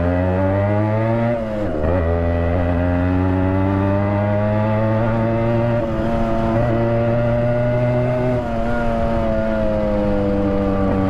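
Yamaha RX100's two-stroke single-cylinder engine running under way with the silencer's baffle mesh removed, loud and raw, heard from inside the rider's helmet. The engine note climbs steadily, drops briefly about a second and a half in, climbs again, then eases off slowly near the end.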